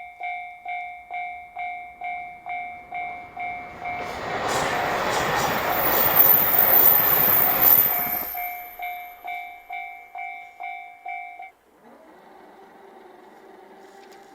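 Japanese railway level-crossing alarm ringing in repeated electronic dings, about two and a half a second, while a KiHa 261 series diesel limited express rushes past for about four seconds, loud enough to drown the bell. The train noise fades and the bell stops about eleven and a half seconds in.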